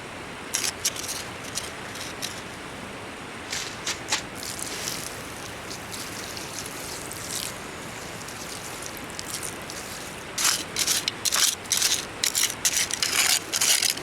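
Short scraping and rubbing sounds in bursts over a steady background hiss, with a dense run of them near the end.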